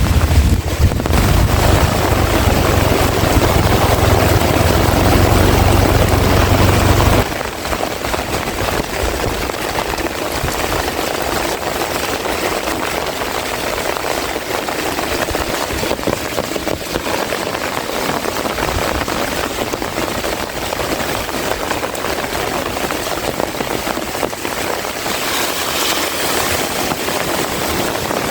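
Heavy rain falling steadily, a dense even hiss. For the first seven seconds strong wind buffets the microphone with a deep rumble, which cuts off abruptly.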